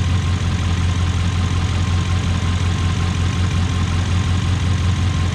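Audi S6 engine idling steadily on a freshly reassembled stock-turbo setup.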